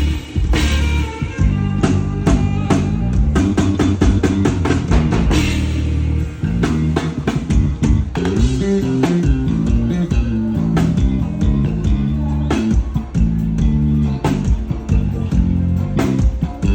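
Live band playing an instrumental passage at a soundcheck: guitar over a drum kit with rapid, dense hits and a moving low bass line.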